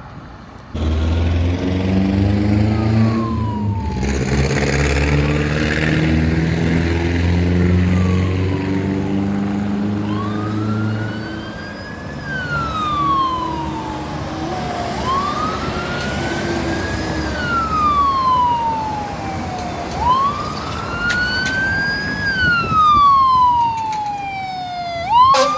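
Fire engine siren and drone. It opens with a loud, low, steady drone under a slowly rising engine note for about ten seconds. Then a wail siren repeatedly climbs quickly and falls away slowly, about once every five seconds.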